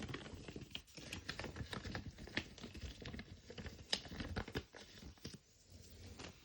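Small paper and plastic toy packaging being handled: rapid, irregular crinkling and small clicks that thin out near the end.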